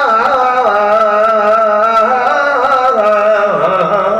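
A man singing an Arabic religious poem (qasida), holding long drawn-out syllables that waver up and down in pitch in a melismatic line.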